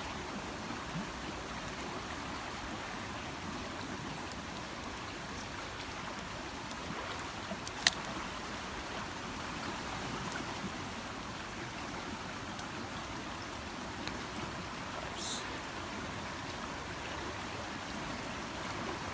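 Steady rush of a river running high in flood, with one sharp pop about eight seconds in.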